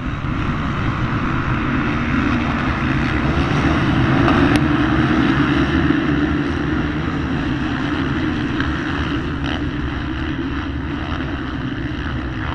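Several motocross bikes' engines running together as a field of dirt bikes goes round the track, a dense overlapping engine noise that swells a little near the middle and eases off after.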